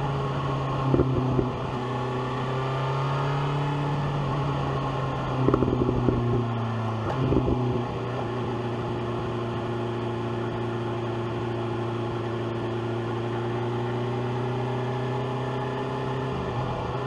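BMW S1000R's inline-four engine running at a steady, nearly constant speed while riding, its note dipping slightly a couple of times. A few short loud bursts of noise break through about a second in and again around the middle.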